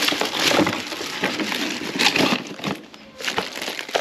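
Irregular rustling and clattering of things being handled, loudest about half a second and two seconds in, with a short lull near the end.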